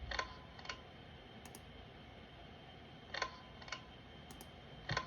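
Pull-chain switch of a 36-inch Harbor Breeze Typhoon ceiling fan clicking as the chain is pulled and let go. The clicks come in pairs about half a second apart, twice, with one more click near the end.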